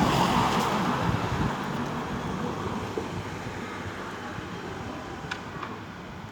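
Road traffic noise, with a passing vehicle fading away. It is followed by a couple of faint clicks near the end.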